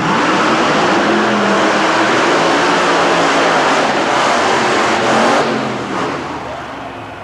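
Monster truck engines running loud at full throttle. The roar holds for about five seconds, then dies away near the end.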